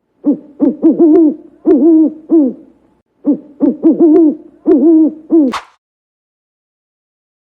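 An animal calling: a quick series of short pitched calls, each falling in pitch, in two bouts of about two and a half seconds. The second bout ends in a brief rising squeal.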